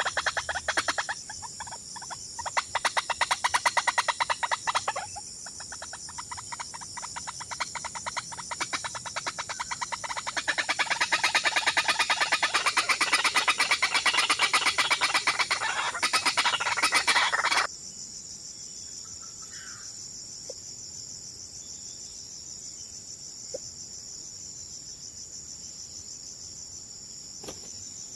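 Rapid, repeated bird calls over a steady high-pitched insect chorus. About two-thirds of the way in, the calls cut off abruptly, leaving only the insect chorus and a few faint clicks.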